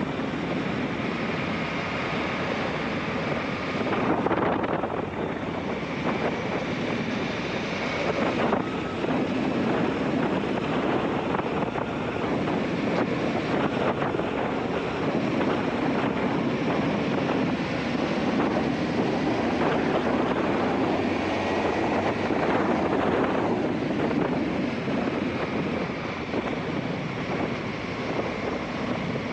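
Wind noise buffeting an action camera's microphone on a moving motorcycle, with the Aprilia Shiver 750's V-twin engine running underneath; the wind surges louder a few times.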